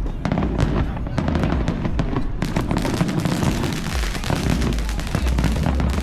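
Fireworks grand finale: a dense, continuous barrage of bangs and crackles with a low rumble underneath.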